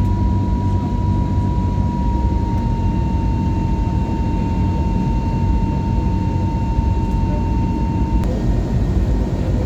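Steady cabin noise inside an Airbus A321neo airliner: a dense low rumble with a thin steady whine above it. The whine shifts abruptly about eight seconds in.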